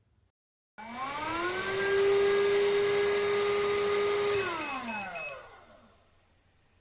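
Bissell CrossWave Cordless Max wet-dry vacuum's motor spinning up with a rising whine, running steadily, then winding down. About four quick beeps sound as it slows.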